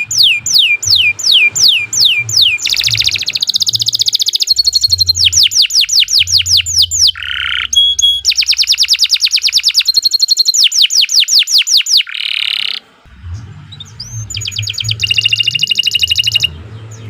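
Domestic canary singing a long song. It opens with a run of quick notes sweeping down, then moves into very fast rolling trills and a few lower notes. It pauses briefly near the end, then gives one more fast trill that cuts off suddenly.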